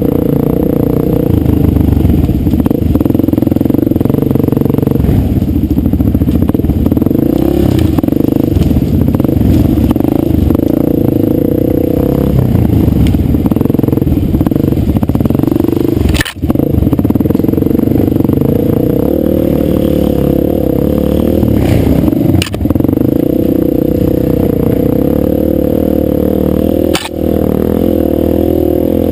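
Dirt bike engine running steadily under way, its pitch wavering a little with the throttle, with three brief drops in sound about halfway through and near the end.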